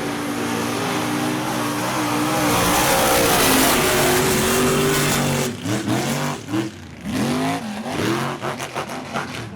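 Mega truck engine running hard at high revs, loudest about three seconds in. From about halfway through it is revved in short rising-and-falling blips.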